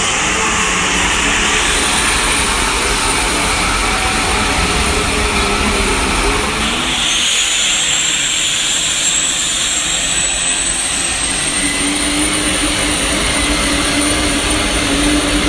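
Diesel pulling truck's engine running hard and loud under load, with a high whine that rises slowly from about halfway through.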